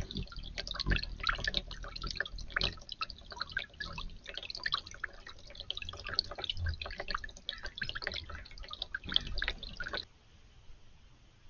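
Water dripping and splashing in a garden fountain, a dense, irregular patter that cuts off suddenly about ten seconds in.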